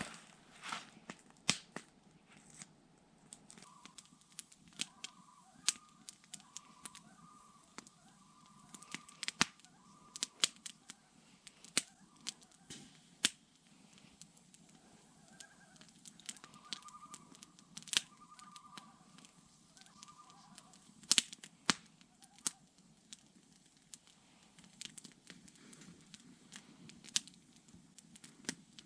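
Irregular sharp crackles and pops, scattered unevenly throughout. A faint warbling call repeats in short phrases in two stretches, a few seconds in and again about two-thirds of the way through.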